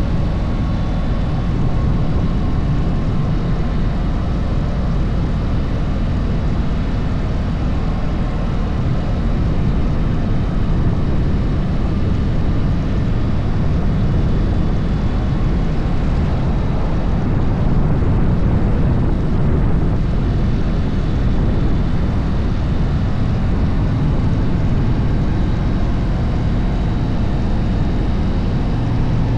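Harley-Davidson motorcycle riding downhill: steady engine running under wind rushing over the microphone, with no sudden events.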